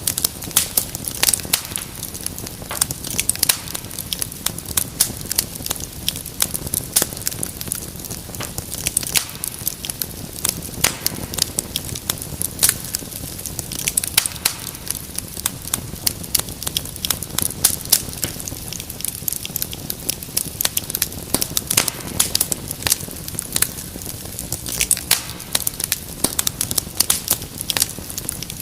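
Wood fire crackling in a fireplace: dense, irregular sharp pops and snaps over a steady low rumble of burning.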